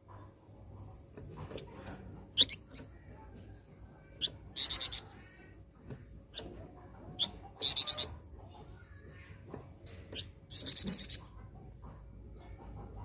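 A flamboyan songbird calling: three loud, rapid rattling trills about three seconds apart, with short sharp chirps in between.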